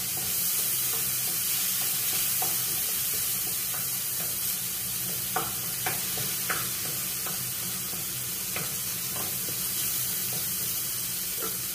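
Tomatoes sizzling steadily in hot oil in a wok while a wooden spatula stirs them, with a few light taps and scrapes of the spatula against the pan.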